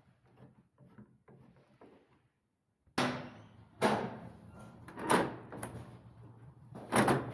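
A metal entrance door and its handle and latch being worked: faint clicks at first, then a sudden loud knock about three seconds in that rings on, followed by more clacks and knocks, the loudest near the end.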